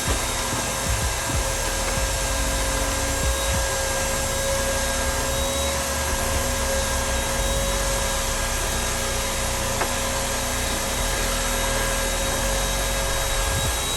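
Vacuum cleaner running steadily with a constant whine over its rushing noise.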